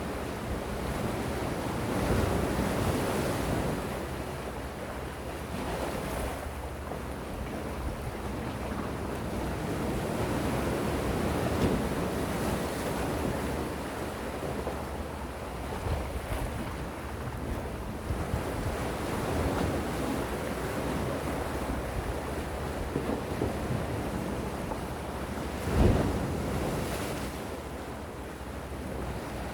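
Gentle sea waves washing onto the shore, swelling and ebbing every few seconds, with one stronger wave breaking near the end. Wind rumbles on the microphone.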